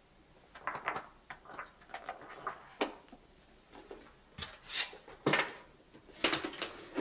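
Irregular knocks, clatters and rustling of household objects being handled, starting about half a second in.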